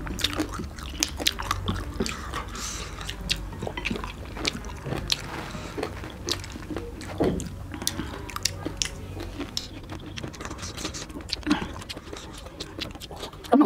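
Close-up chewing and biting of fresh fruit, pomegranate arils and grapes crunched and squished in the mouth, with many small irregular clicks and crunches.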